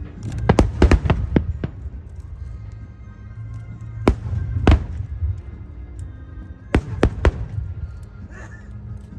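Aerial fireworks bursting: a quick volley of about six sharp bangs in the first two seconds, two more around four to five seconds in, and three close together near seven seconds. Music plays underneath.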